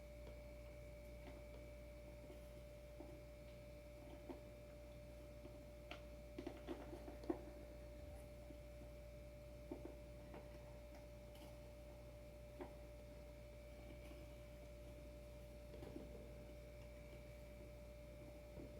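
Near silence with a faint steady whine and a few scattered light clicks and taps, the loudest cluster about six to seven seconds in: small skateboard parts and hardware being handled.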